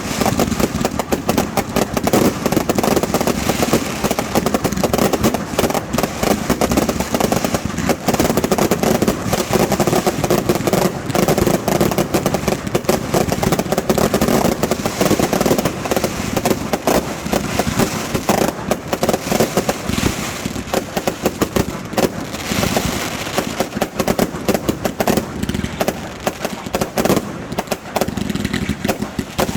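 Aerial fireworks going off in a rapid, unbroken barrage of overlapping bangs and crackling.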